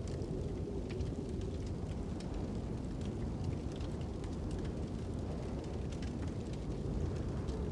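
Fire crackling with scattered sharp pops over a steady low rush of wind.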